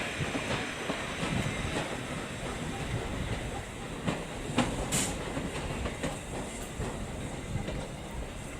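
Heritage railway train running on the track, its wheels clicking over rail joints amid a steady rumble, with a sharp click about five seconds in. The sound eases off slightly.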